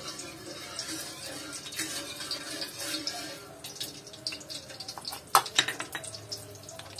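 Steady rain with water dripping, full of small ticks, and a few sharp clicks a little after five seconds in.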